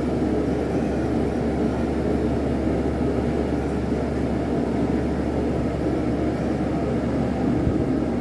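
Forge running with a steady, even rushing noise and low hum while a railroad spike heats in it.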